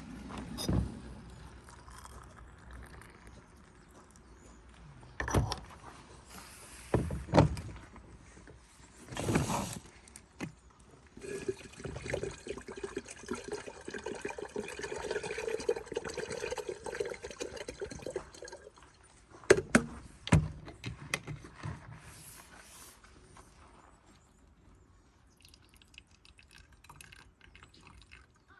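Tea ware being handled: a few sharp knocks and clinks of cups and pot, and in the middle several seconds of liquid pouring as pu-erh tea is served.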